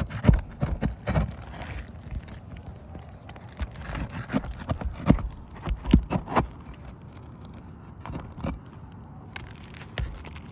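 Irregular knocks and scrapes from hands-on repair work on an asphalt shingle roof, in two bunches: one in the first second or so and another from about three and a half to six and a half seconds in.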